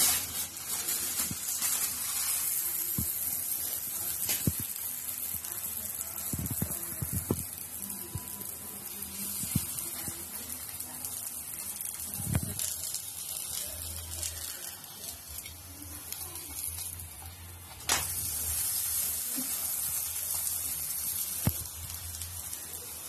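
Obbattu flatbread frying in oil in a nonstick pan, sizzling steadily, with occasional taps and scrapes of a spatula and fork against the pan as it is pressed and turned.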